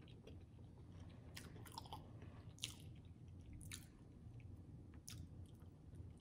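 A person chewing tender turkey leg meat close to the microphone, with a few faint wet mouth clicks and smacks.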